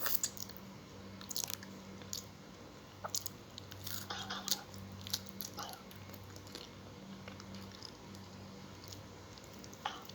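Close-up eating sounds: irregular chewing, lip smacks and small crunches of fried tilapia and greens, with a low steady hum underneath.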